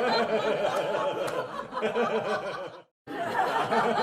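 Studio audience laughing, many voices together. The laughter dies away nearly three seconds in, cuts to a moment of silence, and starts up again at full strength.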